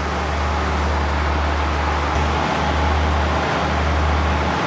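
Steady low rumble with an even hiss from a train standing at the platform, its engine and ventilation running; the low hum briefly drops out a few times in the second half.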